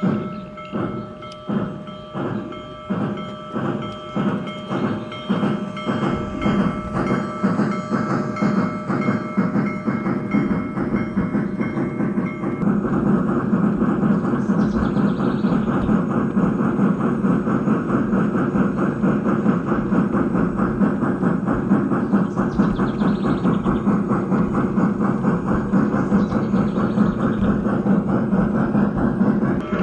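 G scale Union Pacific Big Boy model steam locomotive's sound unit chuffing. The chuffs quicken over the first dozen seconds as it gathers speed, then run on fast and dense.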